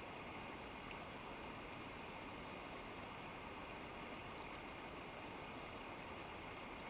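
Steady rushing of a mountain river's flowing water, with no breaks or separate events.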